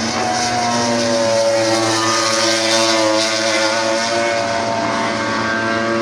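MotoGP racing motorcycle engines running at high revs, several engine notes overlapping, their pitches slowly rising and falling.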